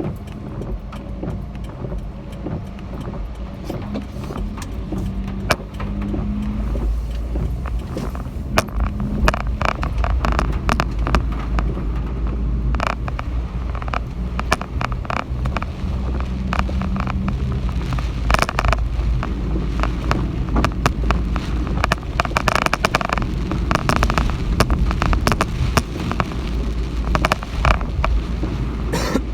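Typhoon Hagibis wind and rain: a heavy, unbroken low rumble of wind on the microphone with many sharp taps and rattles, getting louder about six seconds in.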